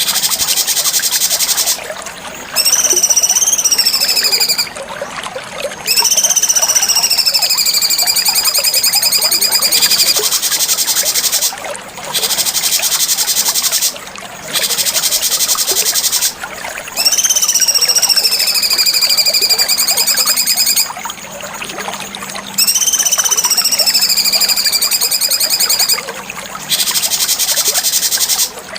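Cucak cungkok birdsong: clear high whistled phrases that waver and fall, then hold a steady note, alternating with a fast, harsh buzzing chatter, with short breaks between phrases.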